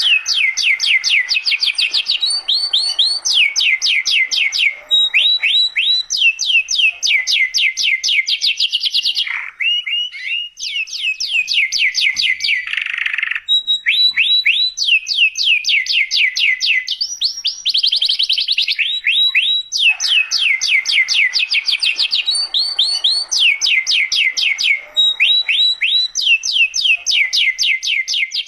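Domestic canary singing non-stop: long runs of rapid, evenly repeated down-sweeping notes, switching every second or two from one trill to the next.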